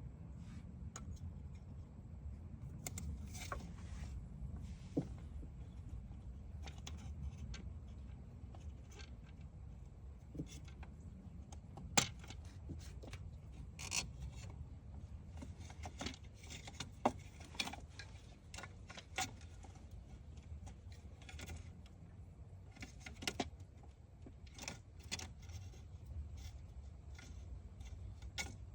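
Scattered light clicks and knocks of tools and parts being handled, a few sharper, over a low steady rumble.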